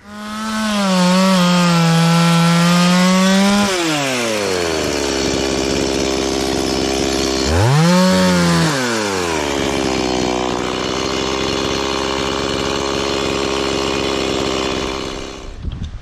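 Chainsaw starting up suddenly and running at high revs, wavering slightly. About four seconds in the revs drop away, then the saw revs up sharply again for a second around the middle. It settles to a lower steady speed and cuts off near the end.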